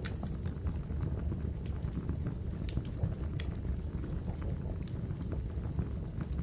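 Small wood campfire burning: a steady low rumble of flames with scattered sharp crackles and pops from the burning logs, a dozen or so spread irregularly through the few seconds.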